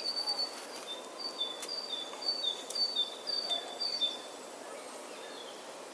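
A songbird repeating a two-note whistled call, a higher note then a slightly lower one, about seven times in a quick even series, over a faint outdoor background hiss. The calling stops about four seconds in.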